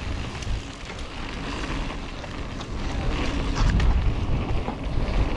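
Wind rushing over the microphone and the rumble of mountain bike tyres on a wet dirt trail at speed, with a few scattered clicks and rattles from the bike. The rumble grows louder about three and a half seconds in.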